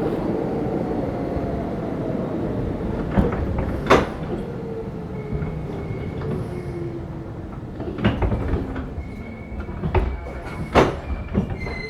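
Interior running sound of a Keisei 3500-series electric train car slowing down: the traction motor hum falls steadily in pitch as the train brakes, with wheels knocking over rail joints a few times. A thin high wheel or brake squeal comes in toward the end as the train nears the station.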